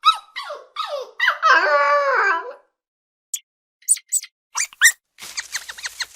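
A dog whining and howling in several drawn-out cries that fall in pitch, followed by a run of short, high yips.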